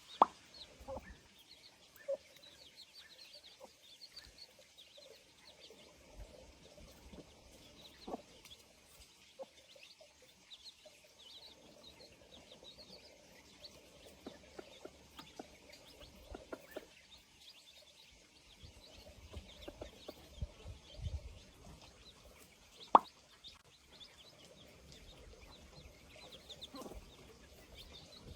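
Faint, repeated short bird chirps, with scattered low rumbling and a few sharp knocks, the loudest just after the start and again about 23 seconds in.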